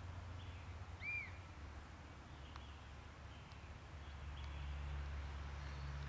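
Faint outdoor ambience: a low steady rumble with a few short bird chirps, the clearest a single arched whistled note about a second in, and a few faint ticks.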